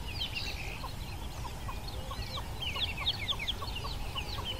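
A flock of chickens calling: many short, high, overlapping chirps and clucks, several a second, over a low steady rumble.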